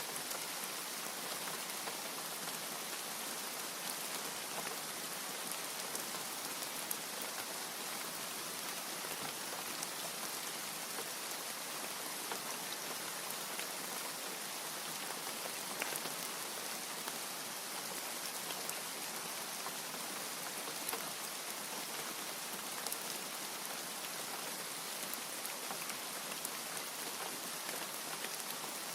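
Steady rain, with scattered sharp drop ticks against an even hiss and no thunder.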